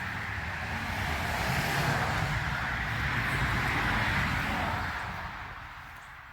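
A vehicle passing by on a road: engine and tyre noise that grows louder, peaks about two to four seconds in, then fades away.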